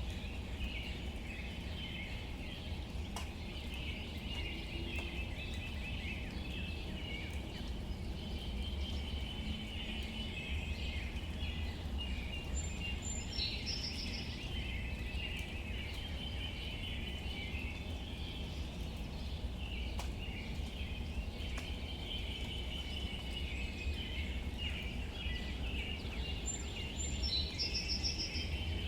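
Outdoor nature ambience: a steady high chirring chorus over a low rumble, with a brief bird call about halfway through and another near the end, and an occasional single drip or tick.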